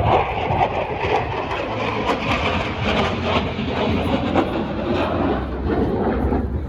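Fighter jet's engine noise, a loud, rough crackling rumble that holds steady throughout.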